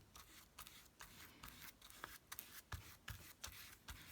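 Faint, irregular snips and rustles of paper being cut with scissors and handled.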